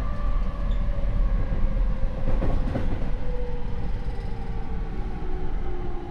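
Rinkai Line 70-000 series electric train in motion, heard on board: rail and running-gear rumble under the whine of its MT73 traction motors and Mitsubishi IGBT inverter, several tones gliding slowly down in pitch as the train slows. This set's motors are unusually loud, which marks it as a noisy car.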